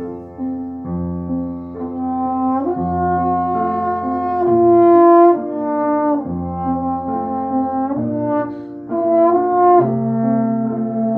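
Instrumental ensemble music: slow chords of sustained notes that change every second or two, in a brass-like sound, loudest about five seconds in.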